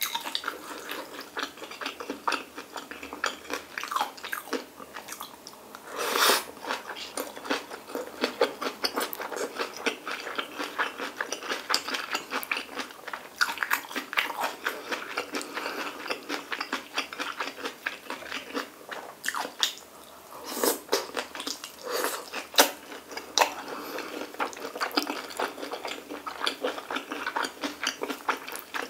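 Close-miked chewing of stir-fried kimchi, pork belly and rice: a steady run of wet mouth clicks and crunching, with a few louder bites.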